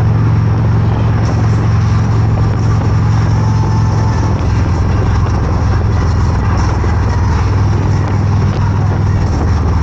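Motorcycle engine running steadily on the move, with a steady rush of noise over it.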